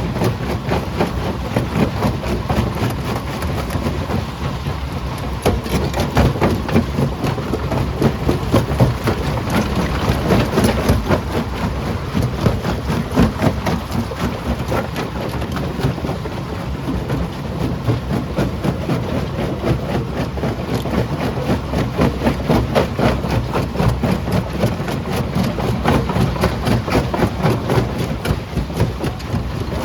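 Primary jaw crusher crushing rock: a continuous heavy rumble thick with rapid clattering and knocking of stone being broken.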